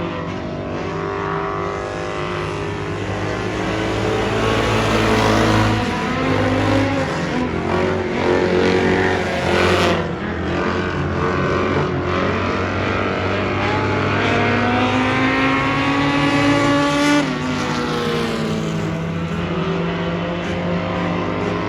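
Race car engine running hard, its pitch climbing and falling as it accelerates and lifts off in turn, with a sudden drop when the throttle closes about seventeen seconds in.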